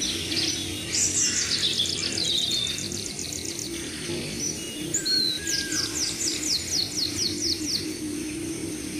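Birds singing: two quick trills of falling high notes, one about a second in and a slower one about five and a half seconds in, with other short chirps between them.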